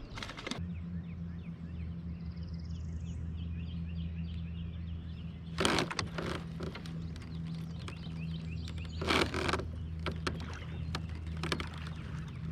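A steady low motor hum starts about half a second in as the kayak gets under way, with birds chirping faintly and two short louder bursts of noise about six and nine seconds in.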